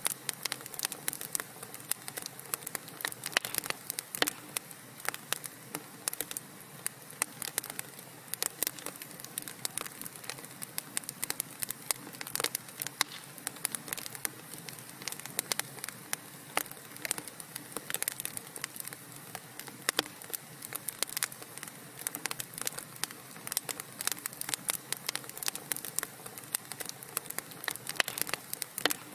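Wood fire crackling in a fireplace: a steady soft hiss with dense, irregular sharp pops and snaps.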